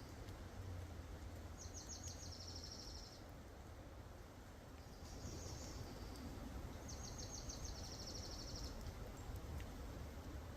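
A songbird singing a high, rapid trill three times, over a steady low rumble of wind or microphone noise.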